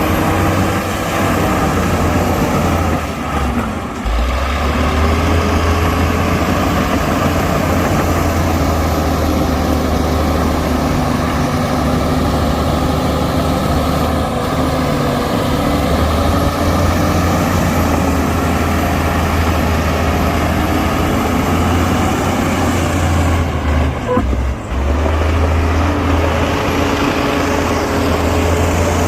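Heavy diesel engine of earthmoving machinery running under load, a steady low rumble whose pitch wavers slowly, with two brief dips in loudness.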